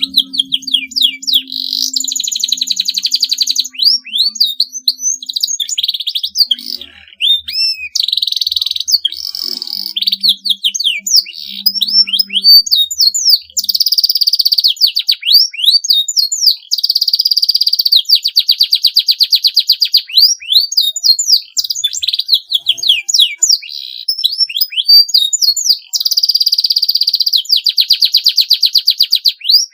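Canary singing a long, nearly unbroken song: fast rolling trills alternating with quick rising and falling whistled sweeps.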